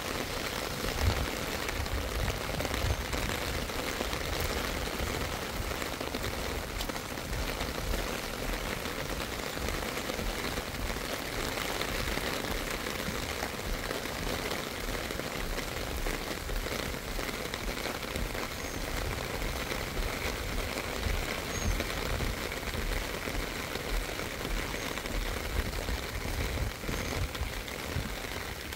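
Steady rain falling, an even hiss throughout, with an irregular low rumble underneath.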